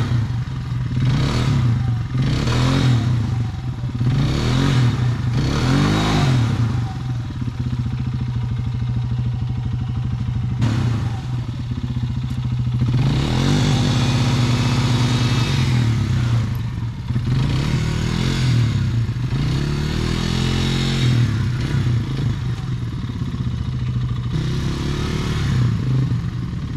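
Small off-road motorbike engine revving in repeated blips about once a second. From about ten seconds in it holds steadier revs, with a rise and smaller swells.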